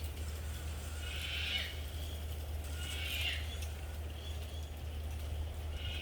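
Bamboo forest ambience: a steady low rumble, with a short rasping sound that falls at its end, heard three times about two seconds apart.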